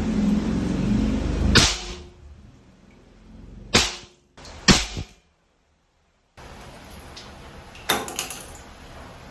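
Small firecrackers (toy bomb crackers) going off in sharp cracks: one after a second and a half of noisy hiss, two more a second apart, then a quick cluster of several cracks near the end.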